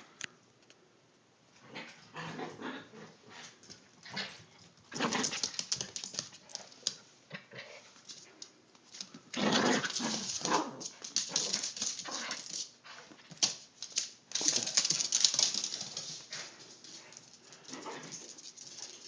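Yorkshire terrier whining and yipping in several bursts during play.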